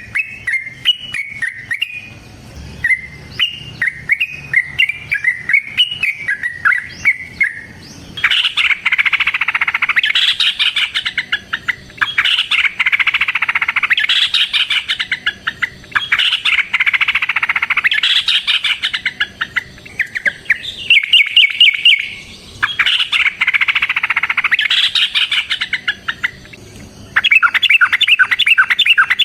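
Yellow-vented bulbul (trucukan) singing. The first eight seconds are short bubbly phrases of rising and falling notes. After that come loud, rapid chattering bursts of about two seconds each with short pauses between them: the long-trill "ropel" fighting song.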